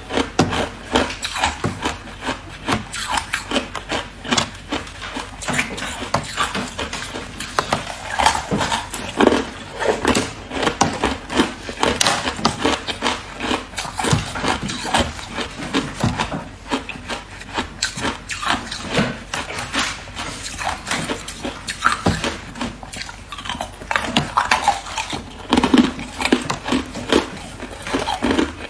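A person chewing hard ice: dense, irregular cracking and crunching, bite after bite, with no pause.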